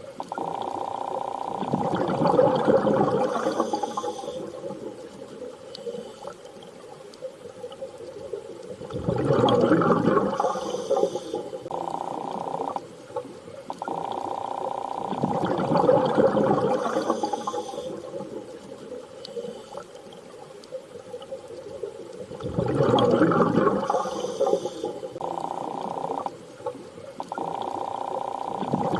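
Underwater ambience: swells of rushing, bubbling water come back about every six to seven seconds, over a steady hum that cuts in and out.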